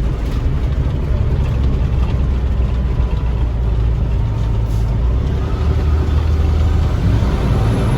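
Box truck cruising, heard from inside the cab: a steady low engine drone with road noise.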